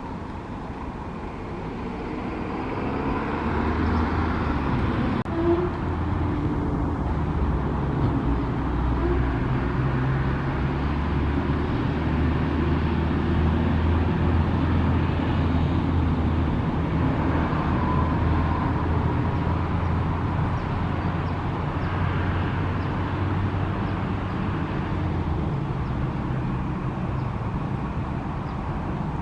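A motor vehicle's engine running, a steady low hum that swells a few seconds in, holds for about twenty seconds and then fades.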